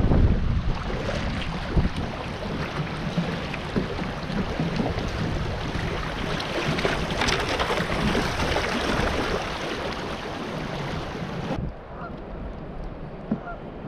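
River water splashing and rushing around a kayak, with scattered short knocks. About three-quarters of the way through, the sound suddenly turns duller and quieter.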